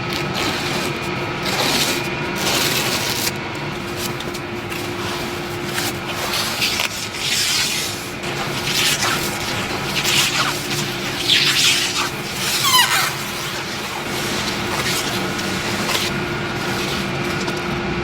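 Factory production machinery running, with a steady hum and irregular hissing and rubbing noises, and a few short falling squeals about twelve seconds in.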